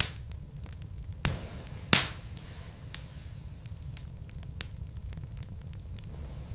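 Wood logs burning in a fireplace, crackling with sharp, irregular pops over a steady low rumble; the loudest pop comes about two seconds in.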